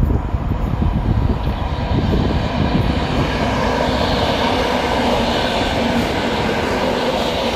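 EN57AL electric multiple unit passing on the rails: a low uneven rumble as it approaches, then a steady rushing rattle of wheels on rail as the cars go by, loudest about four to six seconds in.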